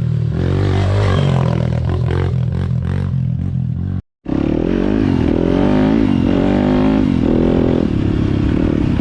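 Four-stroke dirt bike engines: a steady low engine note with some clatter, then, after an abrupt cut about four seconds in, a dirt bike engine revving up and down repeatedly as it rides the trail.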